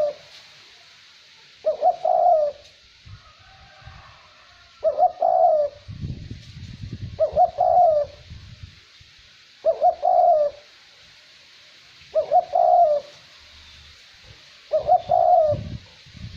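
Male decoy dove cooing: a short phrase of several coos repeated about every two and a half seconds, the territorial call used to lure wild doves. A light wind rumble runs under some of the phrases.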